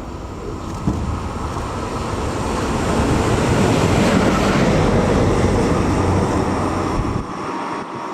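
Train passing through the station, a rumbling rush of wheels and rails that builds to its loudest about four to five seconds in and drops away sharply near the end.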